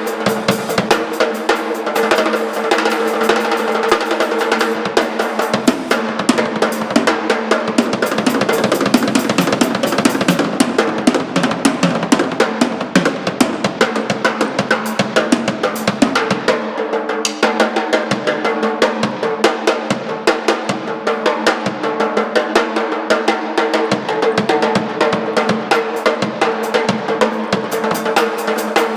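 Rock band playing loud in rehearsal: a drum kit drives the beat with bass drum and snare hits, over held, sustained instrument tones.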